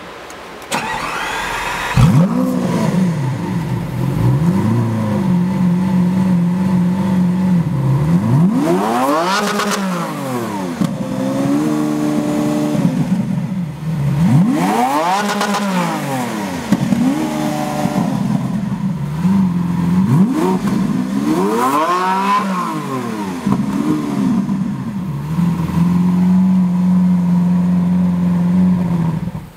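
Lamborghini Aventador LP700-4's 6.5-litre V12 through a Fabspeed Supersport aftermarket exhaust, echoing in a parking garage. It fires up with a rev flare about two seconds in and settles to idle. It is then blipped to redline three times, each rev climbing and falling quickly, with a shorter held rev in between, before returning to a steady idle.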